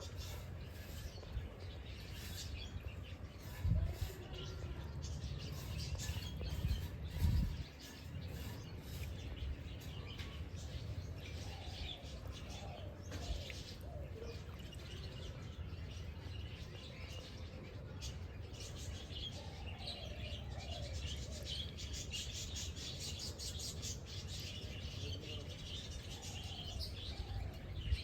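Birds chirping and twittering, with many short calls overlapping throughout. Two low thuds stand out about four and seven seconds in.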